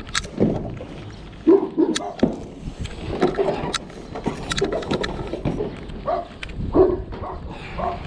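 A dog barking repeatedly in short barks, among scattered sharp clicks and knocks.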